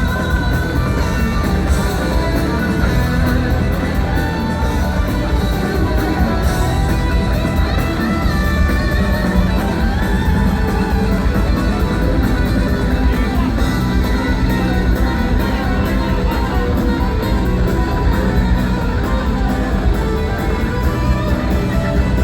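Live rock band playing, with guitar prominent over bass and drums, steady and loud throughout.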